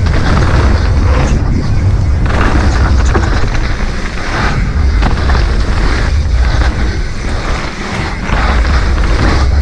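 Wind buffeting a GoPro 12's microphone with tyre rumble as a mountain bike rides a dirt trail: a loud, surging rush that dips briefly a few times.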